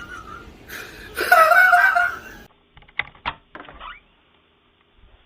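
High-pitched laughter over fart sound effects played by an Amazon Alexa smart speaker; the laughter peaks a little past a second in and is cut off about two and a half seconds in. Then come a few short, sharp knocks.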